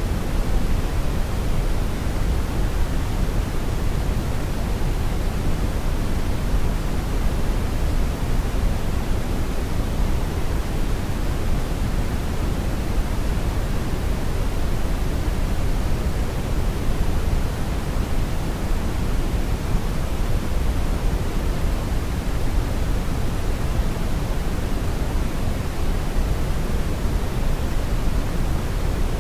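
Synthetic brown noise: a steady, even rumble-hiss, strongest in the low end and tapering off toward the highs, with no change.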